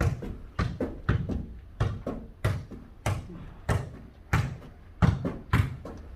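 A ball kicked and bouncing back and forth in a foot-volleyball rally: about ten sharp thuds at a fairly even pace, roughly one every 0.6 seconds.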